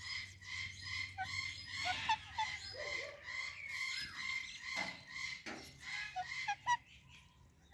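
Pet parrots chattering in a rapid run of short calls, with a few sharper squawks and a quick string of chirps near the end.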